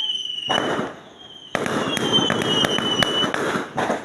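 Aerial fireworks going off: a high whistle, then dense crackling with sharp bangs, a brief lull about a second in, and more crackling and bangs with another whistle that falls slightly in pitch.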